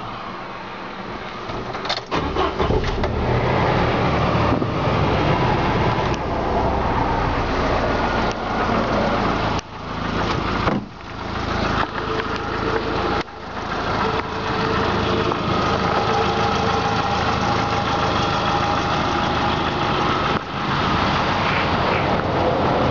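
1997 Jeep Wrangler's 2.5-litre four-cylinder engine starting about two seconds in, then idling steadily, with a few brief dips in level in the middle.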